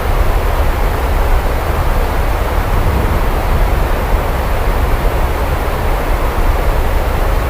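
Steady rain, an even loud hiss with a deep low rumble underneath and no distinct claps or drops standing out.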